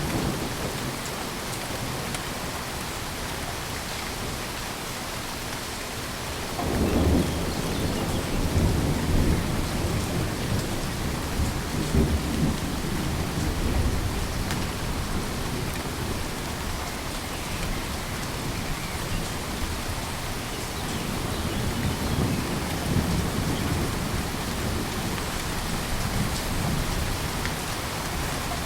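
Steady heavy rain with rolling thunder: a low rumble swells about a quarter of the way in and rolls on for several seconds, and a second, softer roll of thunder comes near the end.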